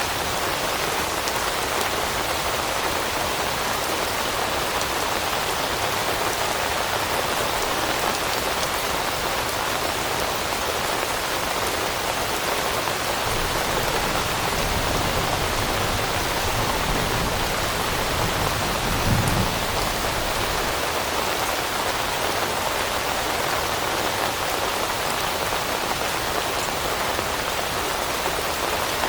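Steady rain falling on leaves, an even, unbroken hiss. A brief low rumble swells about two-thirds of the way through and then fades.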